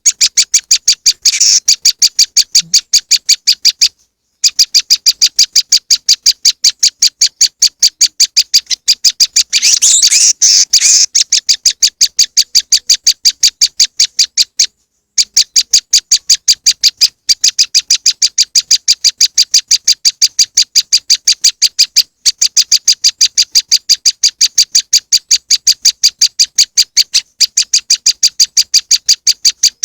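Recorded call of a prenjak lumut played as a bird lure: a fast, even run of high, sharp chip notes, several a second, going on in long strings broken by a few brief pauses. About ten seconds in there is a harsher, scratchy burst of denser notes.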